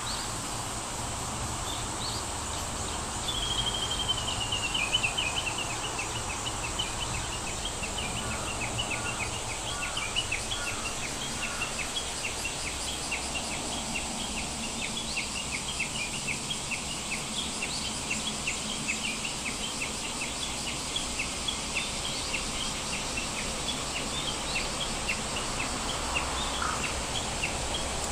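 Outdoor ambience with a bird chirping quickly and repeatedly, several short high chirps a second, beginning with a brief falling trill, over a steady high-pitched hiss.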